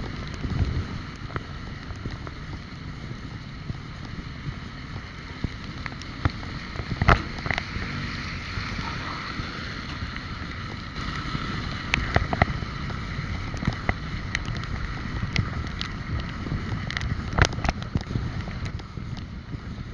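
Wind buffeting the microphone and road noise while riding a bike, with a few sharp knocks and rattles; the loudest comes about a third of the way in and another near the end.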